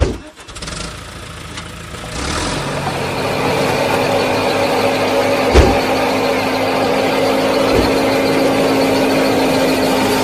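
Small motor of a model mini tractor and thresher machine running with a steady hum, coming up to full running about two seconds in, with two sharp knocks a few seconds apart.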